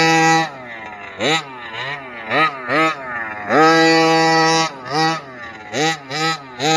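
Small two-stroke petrol engine of a 1/5-scale Kraken Vekta.5 RC trophy truck revving in repeated throttle bursts. The pitch climbs and drops back each time, and the engine is held at high revs for about a second partway through, falling to quieter low revs between bursts.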